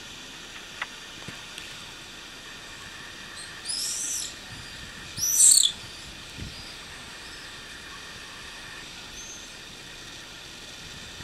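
Two shrill, high-pitched calls from birds flying overhead, each about half a second long and about a second apart, over a steady hiss.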